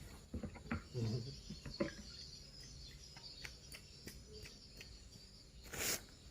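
Crickets chirring faintly and steadily. Scattered small knocks and clicks in the first two seconds, and a short rush of noise just before the end.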